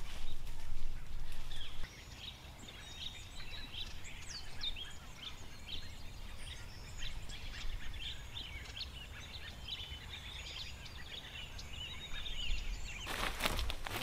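Wild birds chirping, many short high calls and quick whistled glides, over a low steady outdoor background. About a second before the end, loud crackling and rustling of dry twigs and brush begins.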